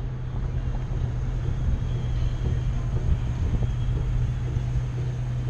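Ford Mustang's engine running at a low, steady hum as the car rolls slowly, with a constant low rumble of road and wind noise on a microphone mounted outside on the hood.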